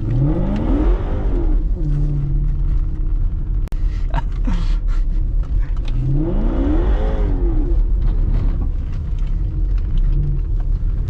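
Supercharged 5.0 V8 of a Range Rover L322, running through an aftermarket Gorilla exhaust, accelerating on a loose road. Its revs climb and fall twice, at the start and about six seconds in, with a steady engine rumble between.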